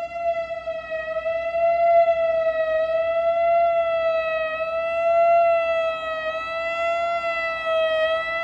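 Large outdoor warning siren sounding a steady high tone, its pitch and loudness wavering slightly.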